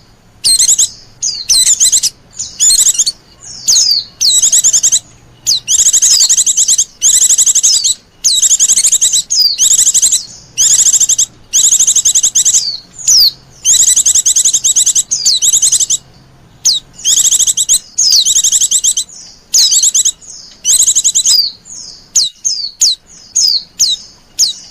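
White-eye (pleci) calls of the kind used as a lure: loud, high, rapid trilling phrases repeated with short gaps between them, turning into a run of short quick chirps near the end.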